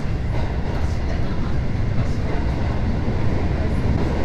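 Electric commuter train running through a tunnel, heard from inside the carriage: a steady low rumble of wheels and running gear.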